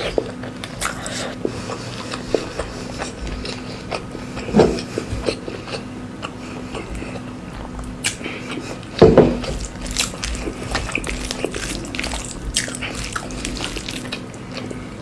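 Close-miked eating: a person chewing and biting food, with many wet mouth clicks and smacks and two louder bites about four and a half and nine seconds in. A faint steady hum runs underneath.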